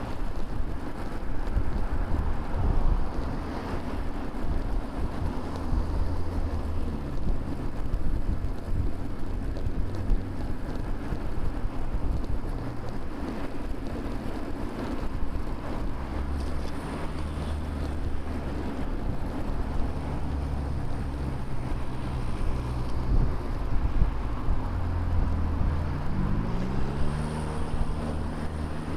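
Wind rushing over the microphone of a bicycle-mounted camera, over motor traffic on a multi-lane road whose engines hum low as they pass. Near the end one vehicle's engine rises in pitch as it speeds up.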